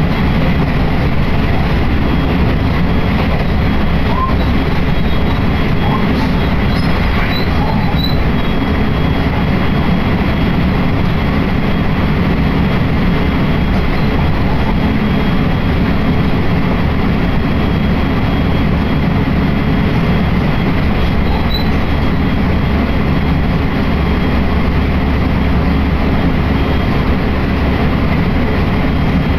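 Passenger train running at steady speed, heard from inside the carriage: a continuous rumble of wheels and running gear with a faint steady high whine over it.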